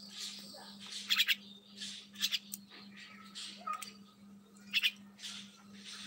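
A caged small bird giving short, sharp calls in quick clusters, three times, over a steady low hum.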